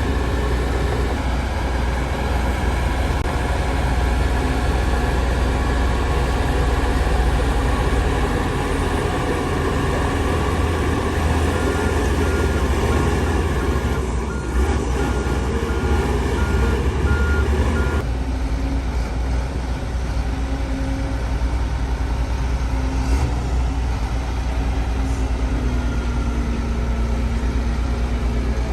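Heavy diesel engines of a Shantui DH17 bulldozer and dump trucks running with a deep, steady rumble. A reversing alarm beeps repeatedly for several seconds in the middle. The engine sound changes abruptly about two-thirds of the way through.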